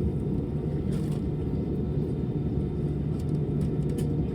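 Steady low rumble of an Airbus A320 cabin, from the running jet engines and air conditioning, with a steady hum and a few faint clicks.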